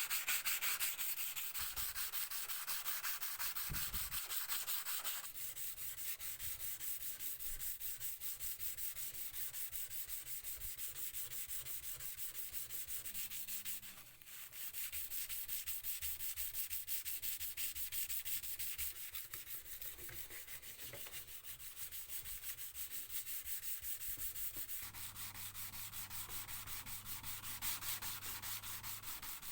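Hand sanding with quick, even back-and-forth strokes, with a brief pause about halfway through.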